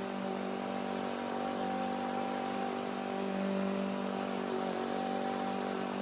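Lawn mower engine running steadily while cutting overgrown grass.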